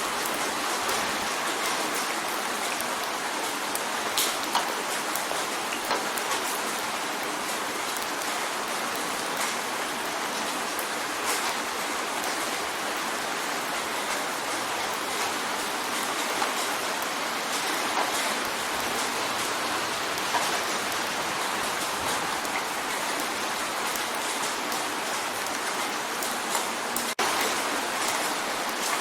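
Steady rain pattering on a window pane, a dense even hiss with scattered sharper drop ticks.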